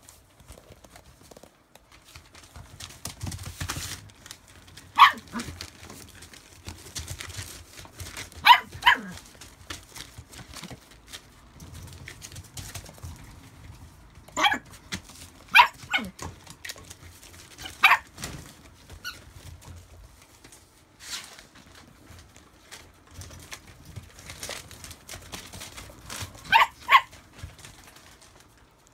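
Rough collie puppies about two months old giving short, high-pitched barks and yips every few seconds, some in quick pairs, with a scuffling rustle between them.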